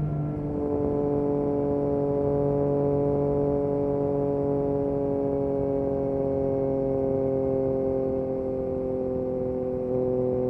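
Yamaha MT-09 SP's three-cylinder engine through an Akrapovic exhaust, running under way at fairly steady revs that slowly fall, with a small rise in loudness near the end.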